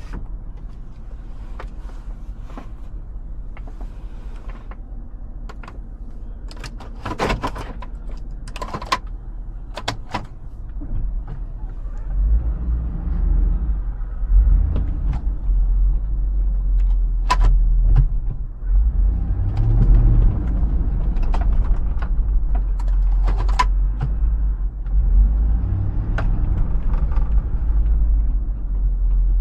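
2005 Hummer H2's 6.0-litre V8 running on the move, a low rumble that swells up and grows much louder about twelve seconds in, as under acceleration. A few sharp clicks or knocks come earlier, while it runs more quietly.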